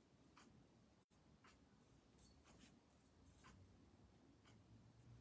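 Near silence, with faint, scattered soft scratches of a calligraphy brush moving over paper.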